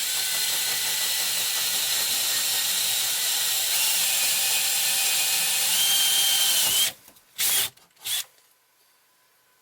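Power drill running under load for about seven seconds, its pitch stepping up partway through, then stopping suddenly, followed by two short blips of the trigger. It is drilling the corners of a window opening in the cabin wall.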